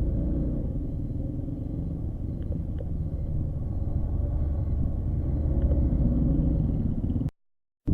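Motorcycle engine running steadily under a low rumble. The sound cuts out completely for about half a second near the end.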